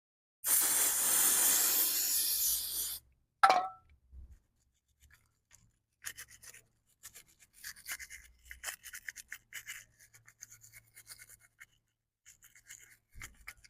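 Aerosol brake cleaner sprayed in one hiss of about two and a half seconds, followed by a sharp clack, then a plastic brush scrubbing inside the brake caliper's cylinders in short irregular strokes to clean them out.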